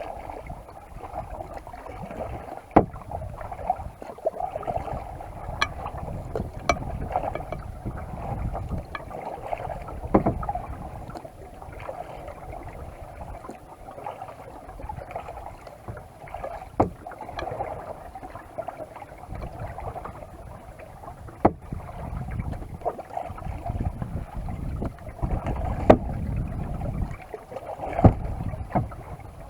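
Kayak paddling: paddle blades working the water with wind on the microphone, and a few sharp knocks scattered through the stretch.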